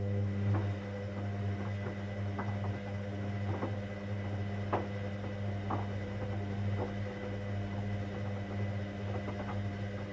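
Hoover Dynamic Next washing machine running mid-cycle: a steady low motor or pump hum with scattered light clicks and knocks at irregular times.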